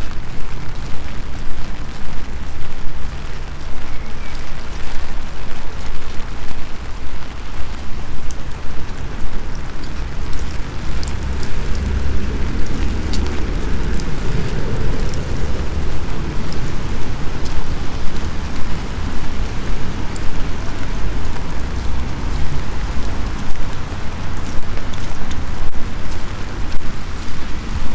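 Steady rain with scattered drops ticking close by, over a loud, uneven low rumble.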